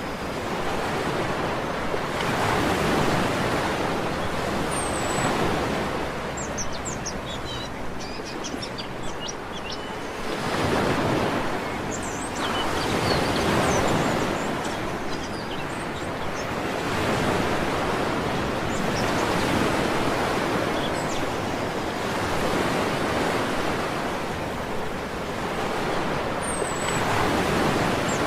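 Sea waves washing onto a beach, the surf swelling and ebbing every several seconds, with short high bird chirps and whistles scattered over it.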